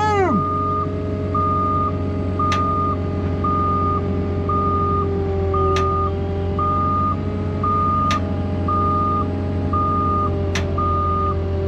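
A heavy machine's backup alarm beeping steadily, about one beep a second, over a diesel engine running at a steady speed. Four sharp clicks or knocks are also heard.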